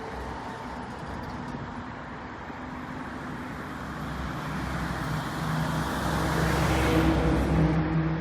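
Korail 7600-class diesel locomotive engine running with a steady hum, growing louder to a peak about seven seconds in, then easing off.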